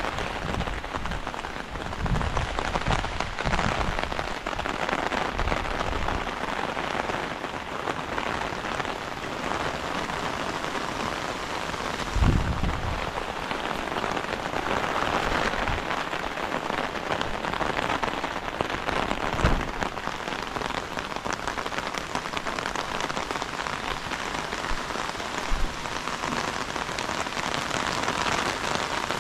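Heavy rain falling steadily with a dense, even patter, broken by a few short low thumps, the loudest about twelve seconds in.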